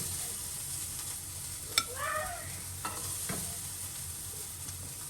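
Food frying in hot oil in a pan: a steady sizzle, with a few sharp clicks about two to three seconds in.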